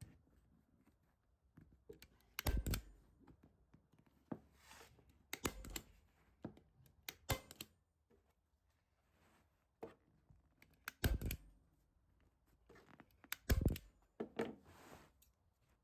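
Hand staple gun firing staples through vinyl into a chair seat: about five sharp clacks a few seconds apart, with the vinyl rustling as it is pulled and handled between shots.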